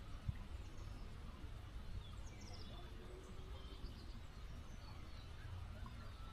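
Faint, steady flow of a small muddy creek with a low rumble underneath, and scattered short, high bird chirps. A single brief thump sounds just after the start.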